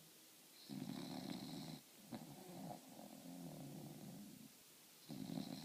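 French Bulldog snoring: a louder snore of about a second with a thin high whistle over it, then a longer, quieter breath and a short pause. The next snore begins near the end.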